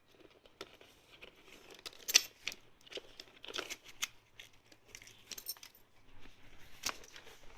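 Handling noise from a motorcycle helmet being turned over and its liner and padding being touched: irregular clicks, taps and rustles. The sharpest clicks come about two seconds in and again near seven seconds.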